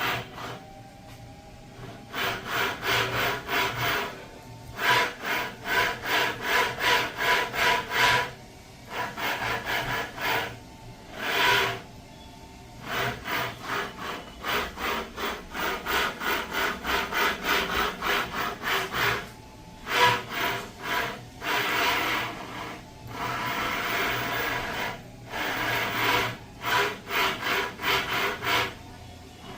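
Volvo S90 electric power steering rack grinding as it is worked, a harsh rasping that pulses a few times a second in runs of several seconds with short pauses between them: the grinding fault in the rack.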